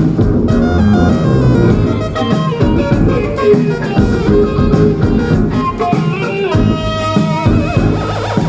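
Band playing an instrumental passage with no vocals: guitars, bass and drums, with a wavering held note near the end.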